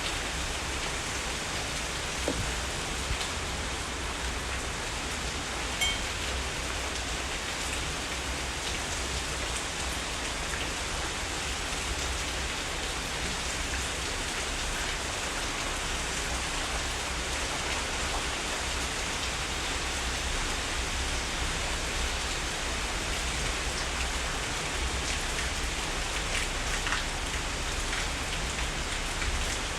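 Heavy rain falling steadily, with a few sharp drop hits standing out from the downpour.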